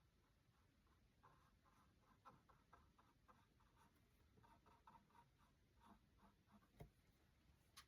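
Faint, quick strokes of a paintbrush working acrylic paint, repeated several times a second, with a couple of sharp taps near the end.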